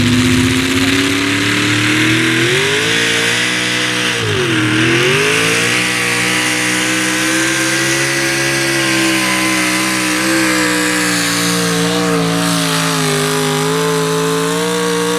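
Pulling truck's engine at full throttle dragging a weight-transfer sled. The revs climb, dip sharply about four and a half seconds in and recover, then hold high with a slow sag as the sled loads up.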